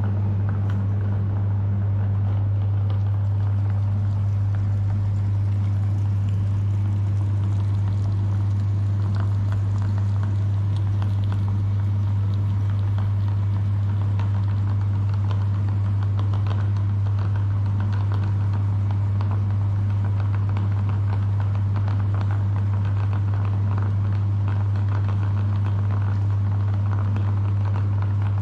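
Electric meat grinder motor running steadily with a strong low hum, with faint irregular crackling from ice cream being ground through it.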